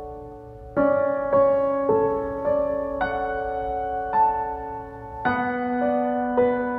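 Soft background piano music: a chord fades away, then from about a second in gentle single notes and chords ring out one after another.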